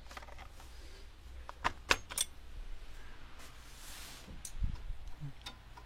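A few sharp metallic clinks close together about two seconds in, with fainter knocks later: sockets and hand tools being handled while a socket size is tried on a bolt.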